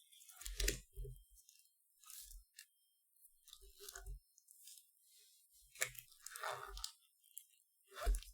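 Paper being handled: short, irregular bursts of crinkling and rustling with soft knocks against the table, about five clusters.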